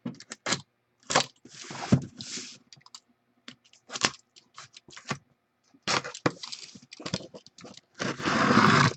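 Trading-card box and packaging being handled: a series of clicks and scrapes of plastic and cardboard, with short rustles. Near the end comes a louder rush of rustling, about a second long.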